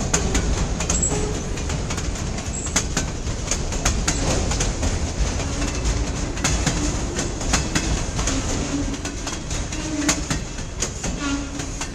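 CSX local freight train rolling by, its wheels clicking over rail joints with a steady low rumble and short faint squeals from the wheels, easing off slightly near the end.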